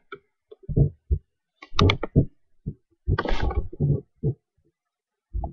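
Irregular knocks, bumps and rustles close to the microphone, with a longer rustle about three seconds in.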